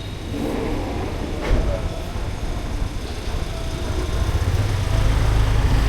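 A motor vehicle's engine running as street traffic, a low rumble that grows louder over the last couple of seconds as it draws close; a single sharp click about a second and a half in.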